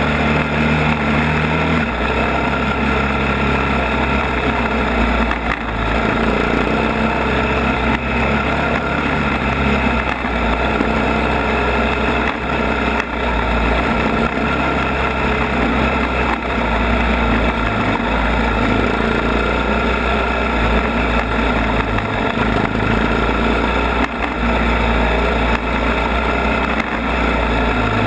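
ATV (quad) engine running while riding a rough trail, its pitch shifting up and down with the throttle, over a constant rush of noise.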